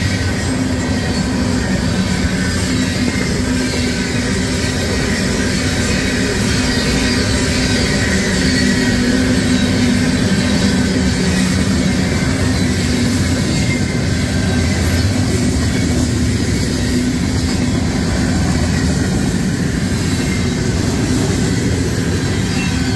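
Freight train cars rolling past a grade crossing: a loud, steady rumble of steel wheels on the rails.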